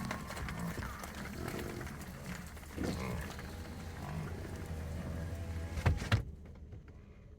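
American bison bellowing and grunting over a steady low hum. Two sharp knocks come about six seconds in, and then the sound drops off suddenly.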